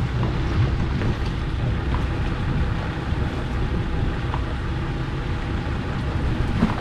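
Steady low rumble of a fishing boat at sea, with wind and water noise.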